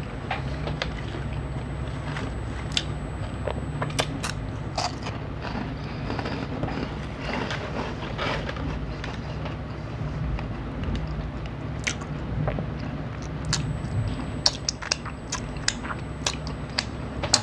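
A person biting and chewing a crunchy yellow puffed snack, with irregular crisp crunches over a steady low hum.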